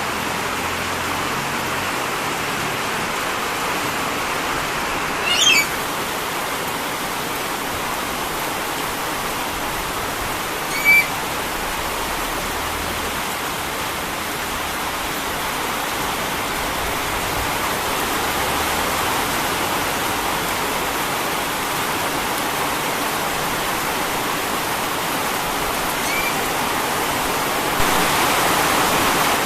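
Steady hiss of falling water, with three brief high chirps from a pet lory about five, eleven and twenty-six seconds in.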